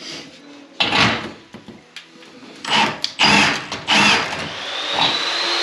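Cordless power drill triggered in four short bursts, its motor spinning up and winding down each time; about five seconds in, a steady motor whine starts and keeps going.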